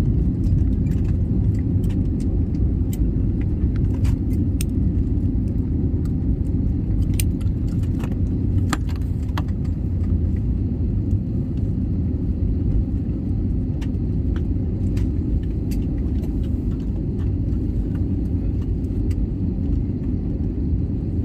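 Airliner cabin noise: a steady low rumble of the engines and airflow, with scattered light rattles and clicks from the cabin fittings.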